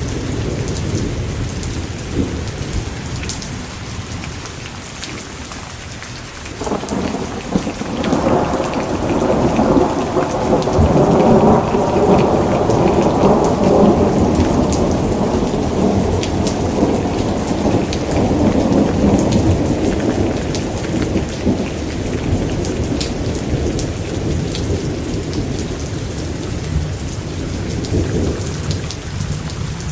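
Steady rain with a long roll of thunder. The thunder starts about six seconds in, swells to its loudest a few seconds later, and rumbles away over the next ten seconds or so.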